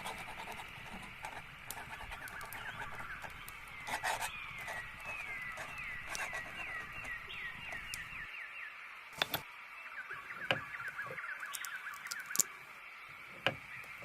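Songbirds chirping in quick trills of falling notes over a soft steady hiss, with a few sharp clicks in the second half.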